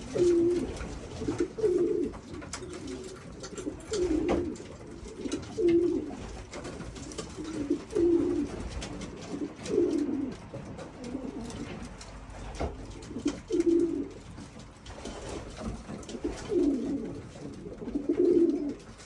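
Racing pigeons cooing, a string of low coos every second or two.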